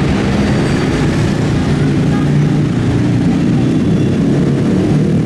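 Street traffic with a motor vehicle engine running close by: steady low engine noise.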